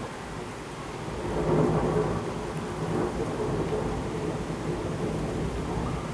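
Thunder rumbling over heavy rain: a rolling rumble swells about a second in and draws out slowly, with the steady hiss of heavy rainfall underneath.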